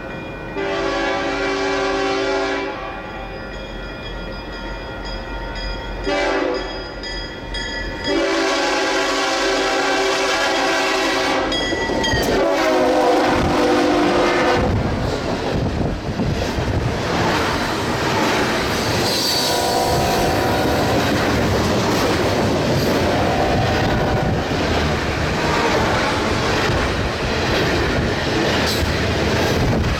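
Freight train locomotive horn sounding four blasts (long, short, long, long) as the train approaches. The train then passes close with a loud steady rumble and clickety-clack of wheels on the rails.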